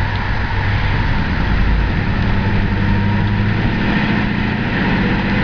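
1970 Chevelle SS's V8 engine running steadily, heard from inside the car as it drives in traffic, with road noise.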